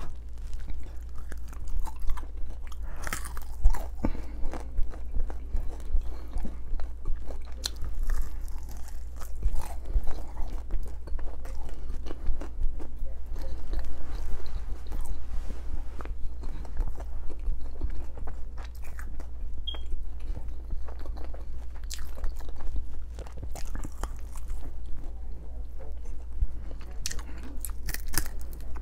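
A person biting and chewing red chicken wings, with many short wet clicks and smacks throughout, and gnawing meat off a bone near the end.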